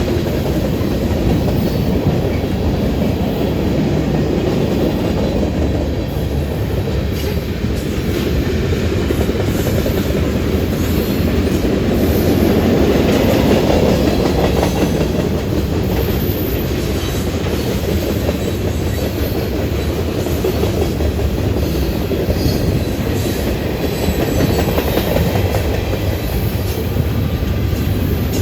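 Union Pacific freight cars rolling steadily past, steel wheels clicking over rail joints, with faint wheel squeal now and then.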